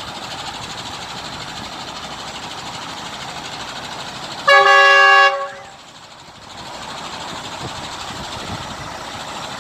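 A truck's horn blasts once, loud and pitched, for just under a second about four and a half seconds in, over the steady noise of passing engines.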